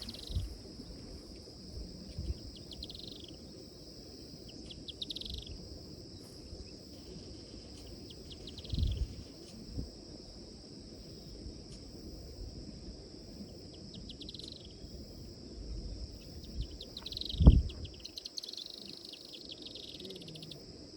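Steady high-pitched insect chorus, crickets trilling without a break, with short chirping calls repeated every few seconds. A few low thumps, the loudest late on.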